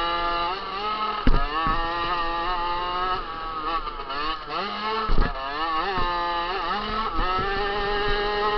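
Small 50cc two-stroke motocross bike engine at race pace, its high-pitched note repeatedly rising and falling as the throttle is opened and shut. Two sharp thumps cut through, about a second in and again about five seconds in.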